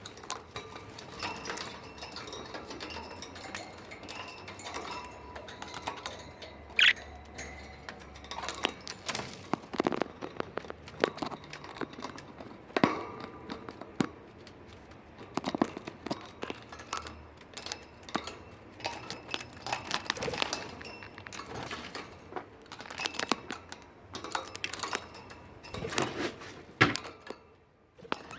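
Budgies moving about their cage: irregular clicks, taps and light knocks from beaks and feet on perches and cage parts, with one short, high chirp about seven seconds in.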